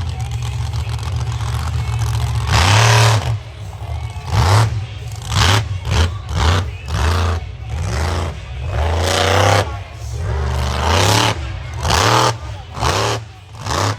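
Monster truck engine revving hard in repeated throttle bursts, the pitch sweeping up and falling back again and again, with a couple of longer full-throttle pulls among quick blips.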